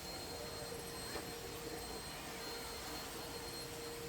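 Rain falling steadily, a faint even hiss, with a thin steady tone underneath and a small tick about a second in.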